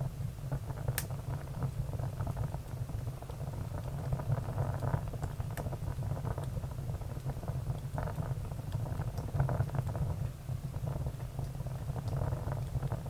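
Wood fire burning: a steady low rumble of flames under dense, fine crackling, with a couple of sharper pops, one about a second in and one near the middle.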